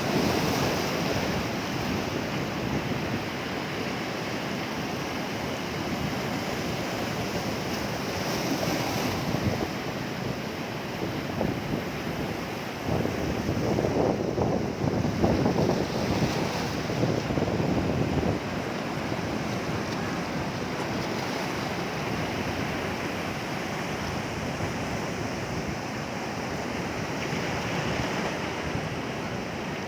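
Sea waves breaking on a shore: a continuous wash of surf, swelling louder for a few seconds around the middle.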